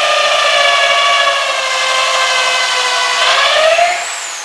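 Electric drill running under load in wood, its motor whine sagging slightly in pitch, then rising sharply and stopping near the end as the trigger is released.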